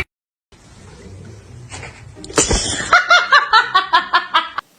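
A person laughing in a rapid run of about ten short bursts, after a single thump about two and a half seconds in.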